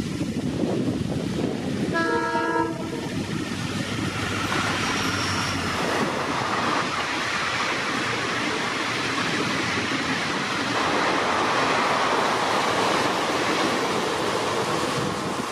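WDP4D diesel locomotive hauling an express train past in heavy rain, with one short horn blast about two seconds in. The locomotive's engine and then its coaches roll past over the steady noise of the rain, growing louder towards the end.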